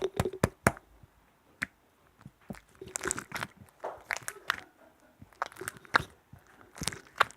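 Close-miked crunching: clusters of crisp crackling clicks, with short pauses between the clusters.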